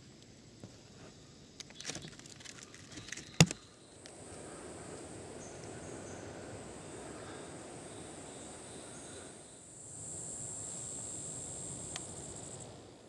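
Insects in a tropical rainforest buzzing steadily at a high pitch, louder for a couple of seconds near the end. Before that, a few seconds in, a brief burst of crackling and rustling ends in one sharp knock, the loudest sound.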